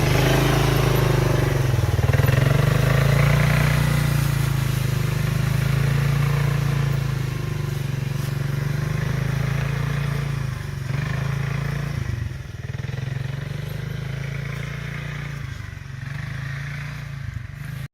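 Small vehicle engine running steadily at an even pitch while under way in gear, a little quieter after about twelve seconds, then cutting off suddenly.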